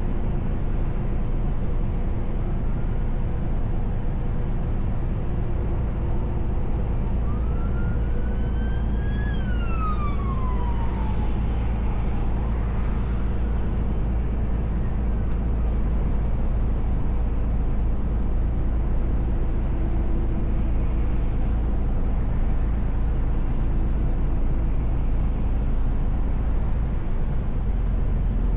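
Steady low drone of a Mercedes Actros L truck on the road, heard from inside the cab. A siren rises and then falls once, from about seven to thirteen seconds in.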